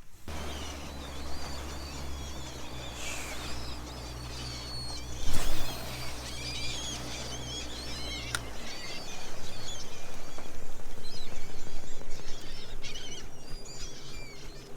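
A flock of seabirds feeding over surface-breaking fish, calling constantly in high chirps. A boat motor hums steadily underneath and cuts out about eight seconds in. There is one loud knock about five seconds in, and a rushing noise builds near the end.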